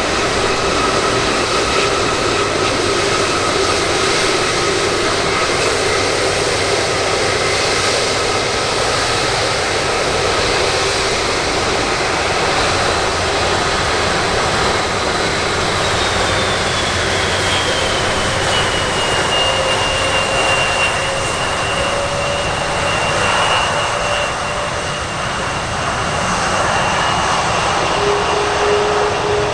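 Jet airliner engines running loudly, a steady rush with a high whine that slides down in pitch around the middle and then holds.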